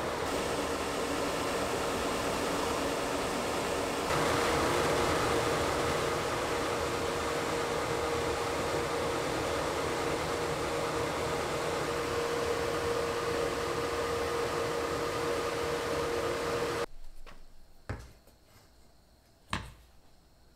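A motor-driven machine whirring steadily with a constant hum, slightly louder from about 4 s in, cutting off abruptly about 17 s in; a few short knocks follow.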